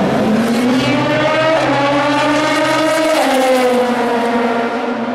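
Racing car engine at high revs approaching and passing: its note rises for about three seconds, then drops sharply in pitch and falls away as the car goes by.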